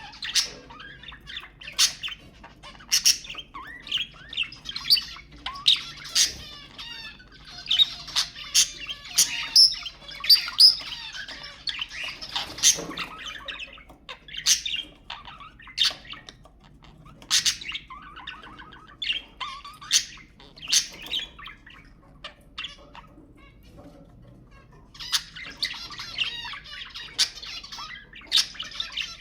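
Budgerigars chirping and warbling: sharp high chirps and squawks over stretches of fast, wavering chatter.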